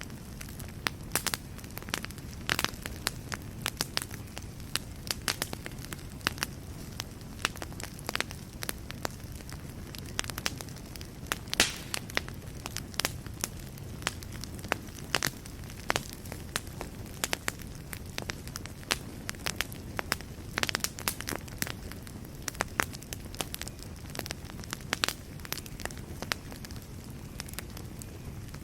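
Wood fire burning in a fireplace: a steady low rumble of flames with frequent irregular crackles and pops, a few of them sharper and louder.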